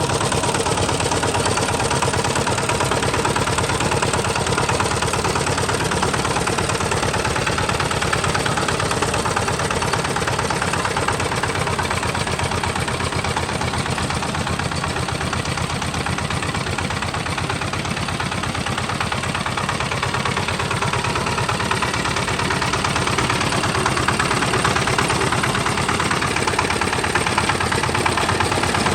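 Tractor engine running steadily with a rapid, even chugging, dipping slightly in loudness about two-thirds of the way through.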